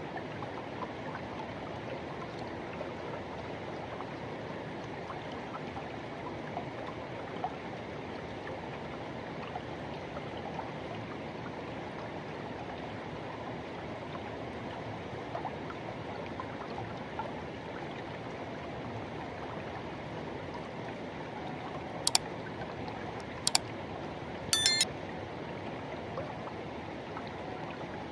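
Forest river water rushing and flowing steadily. Near the end, three brief sharp sounds stand out above it.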